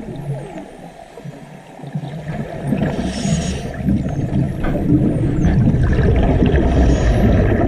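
Underwater sound on a scuba dive: a dense bubbling and crackling, with faint high whistles gliding up and down. The bubbling dips in the first two seconds, then swells. Short hissing surges come about three seconds in and again near the end.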